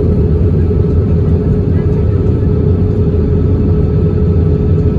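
Airbus A320 cabin noise: a steady, loud rumble of the engines and airflow, with a constant hum, heard inside the passenger cabin.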